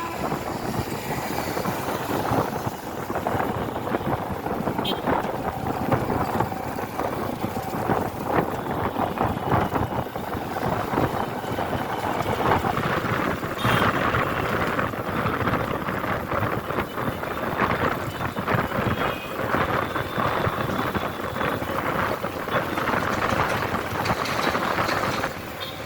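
Riding on a motorcycle: steady wind rush and buffeting over the microphone mixed with engine and road noise.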